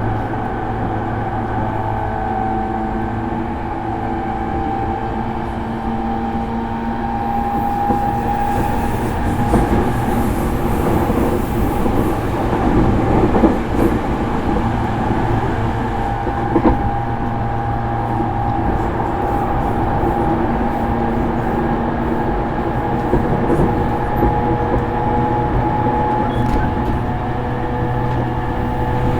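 JR East E231 series electric train running, heard from inside a motor car: steady traction motor and inverter tones with slight shifts in pitch, over continuous wheel-and-rail rumble. The rail noise grows rougher for a few seconds near the middle, with a few sharp clicks from wheels over rail joints.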